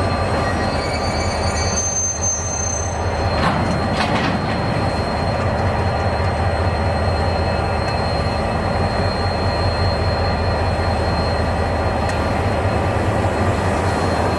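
A train running past with a continuous rumble of wheels on rail and a thin, steady high squeal from the wheels. Sharper high squeals come in about one to three seconds in.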